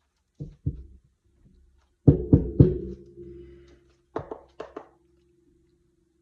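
Knocks in two quick groups of three, with a steady ringing tone that lingers after them.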